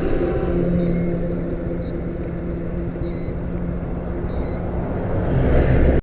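A motor vehicle engine running steadily, a low hum over a rumbling road noise.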